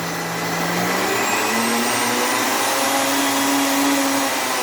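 Electrolux BLP70 blender motor running steadily, its pitch stepping up twice as it gathers speed.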